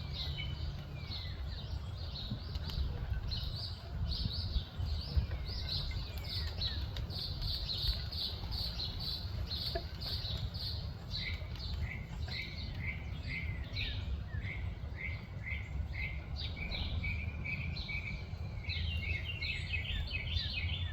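Birds calling in rapid runs of short, high chirps, with a series of quick downward-sweeping notes in the second half, over a steady low rumble.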